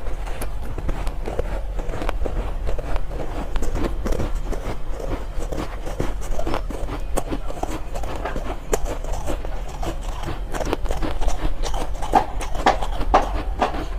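Close-miked chewing of soft ice: a dense, irregular run of crisp crunches, with a steady low hum beneath.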